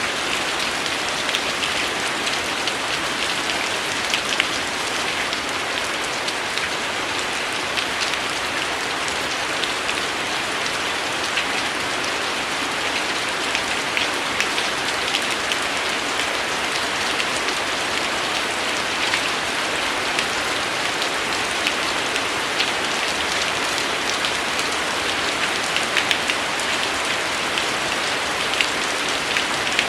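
Steady rain falling: a continuous even hiss with frequent sharp taps of single drops hitting a surface.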